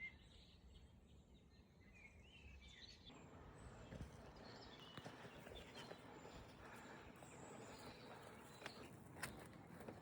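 Faint birdsong, a few short warbling phrases during the first three seconds. After that comes a faint even rushing with a few light ticks.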